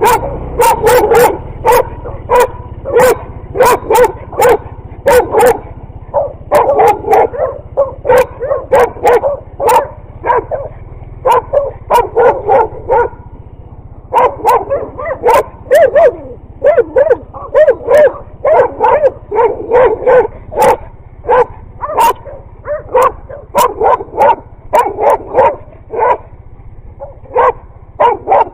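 A dog barking repeatedly and fast, about two to three sharp barks a second in runs, with a short lull about halfway through.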